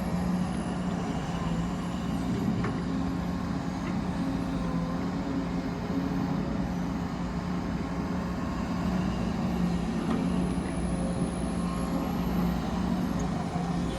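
Heavy mining machinery running steadily: an engine drone holding one even pitch, with a faint high whine above it.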